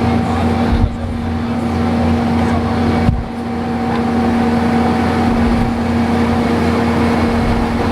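A rack-railway train running uphill, heard from inside the carriage: a steady engine drone with a constant hum. Two brief thumps come about a second in and about three seconds in.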